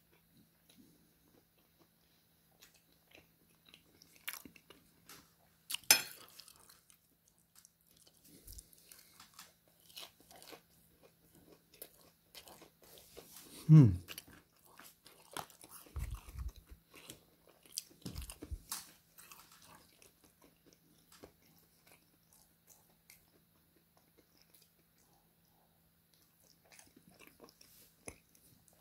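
Close eating sounds of a person chewing fish cake, with crunching and wet mouth clicks. A sharp click comes about six seconds in, and a short falling hum from the eater, the loudest sound, comes about halfway through.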